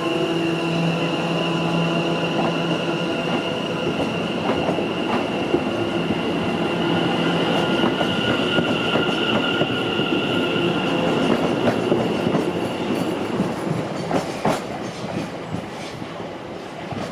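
A train running on the tracks, its wheels clicking over rail joints beneath a steady high-pitched whine. The whine stops about three-quarters of the way through, and the sound then eases off.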